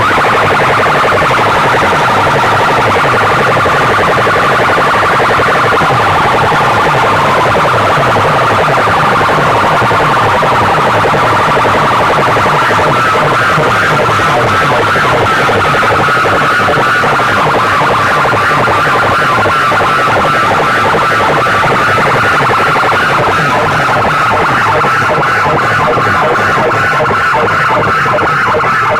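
Loud, distorted music blasted through large sound-system speaker stacks, playing a competition track with a fast, steady pounding bass beat under a wailing siren-like sound.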